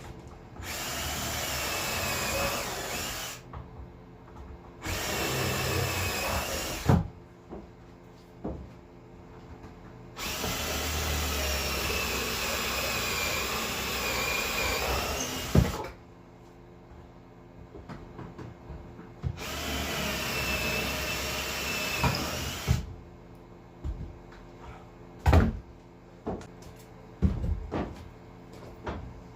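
Handheld power drill boring bolt holes, run in four bursts. The third burst is the longest, about five seconds, and its whine wavers a little under load. Knocks and clicks of parts being handled come between the bursts.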